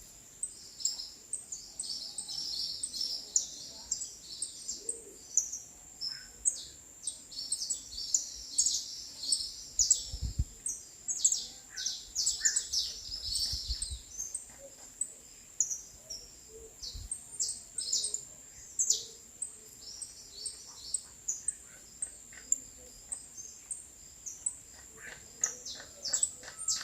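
Small birds chirping and calling in quick, short, high notes, dense and overlapping, over a steady high-pitched whine. A brief low rumble comes about ten seconds in and another a few seconds later.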